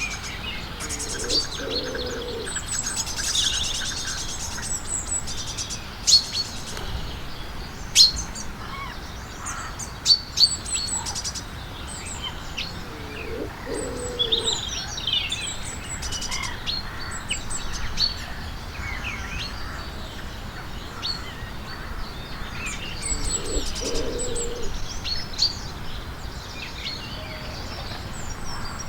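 Several small birds chirping and twittering in short, high calls and quick trills, with a few sharp clicks standing out and a lower call heard three times.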